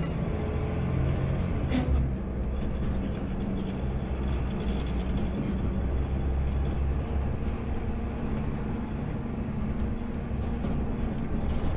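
Automated sideload garbage truck's engine running steadily, heard from inside the cab, with a single sharp click about two seconds in.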